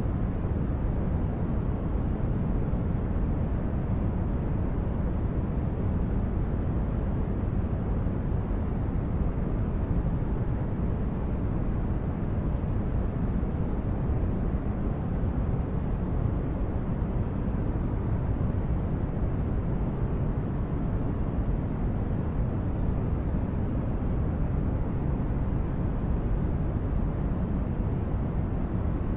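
Synthesized spaceship ambience: a steady, deep rumbling brown-noise drone, like a starship's engines heard from inside, with no changes or distinct events.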